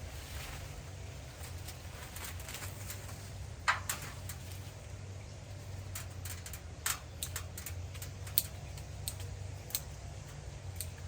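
Tree trimming by hand: irregular sharp snips and twig cracks, a few louder ones, over a steady low hum.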